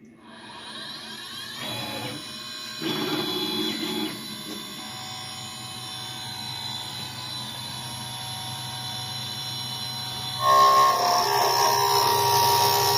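Spindle of a small 3040 five-axis CNC router starting up and running with a steady whine. About ten seconds in it gets much louder and rougher as the T-slot cutter begins milling a slot in the metal.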